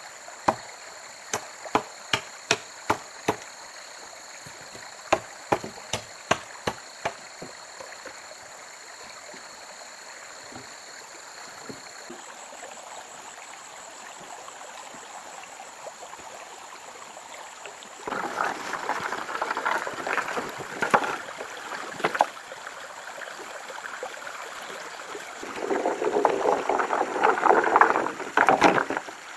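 Blade chopping wood: a quick run of sharp strikes, about two a second, over the first several seconds. Later come two louder stretches of rustling, scraping noise with a few more strikes.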